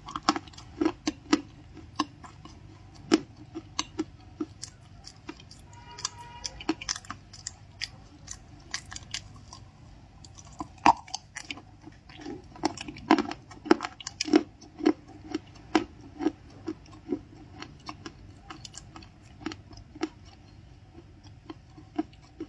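Close-miked chewing of crunchy cream-filled cookies: irregular sharp crunches and mouth clicks, some much louder than others.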